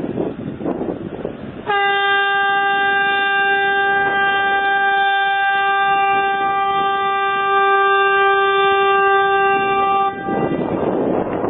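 Ship's horn sounding one long, steady blast of about eight and a half seconds, starting about two seconds in. Wind noise on the microphone is heard before and after the blast.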